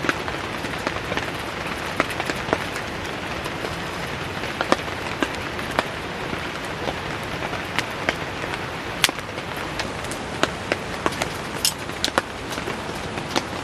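Heavy rain falling steadily, with the sharp, irregular pops and crackles of a wood campfire scattered through it.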